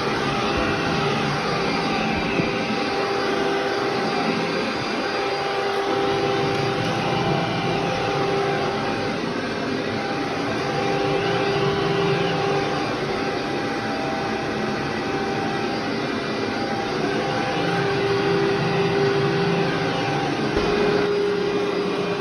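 Vacuum cleaner running steadily, its motor tone shifting slightly now and then.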